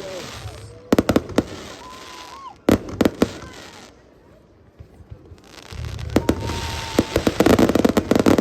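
Fireworks going off in quick clusters of sharp bangs and crackles, with a short lull near the middle and the densest run of bangs near the end. Voices can be heard between the bangs.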